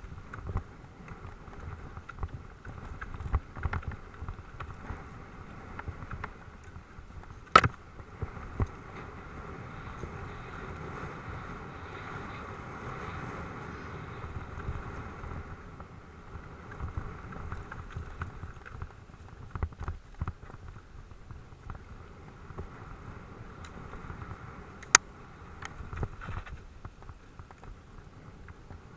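Mountain bike riding over a dirt track: steady tyre rumble, frame rattle and wind on the microphone, with two sharp knocks, one about a third of the way in and one near the end.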